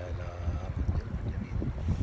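Wind buffeting the microphone, a gusty low rumble, during a heavy rainstorm.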